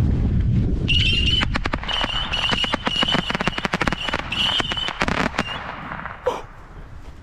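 Two Saturn missile batteries firing: from about a second in, the small rockets launch in quick succession with a steady high whistle and a rapid string of sharp cracks and pops, tailing off with a final pop a little after six seconds.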